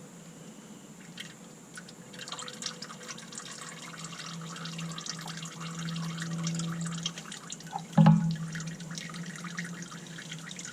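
Used engine oil running and dripping from the drain hole of a 5.0 V8's oil pan into a catch pan, with one sharp knock about eight seconds in.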